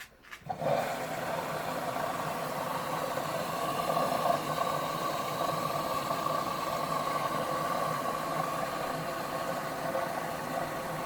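Washer-dryer filling with water: the inlet valve opens about half a second in, and water runs steadily into the machine through the detergent drawer with a rushing hiss and an even hum.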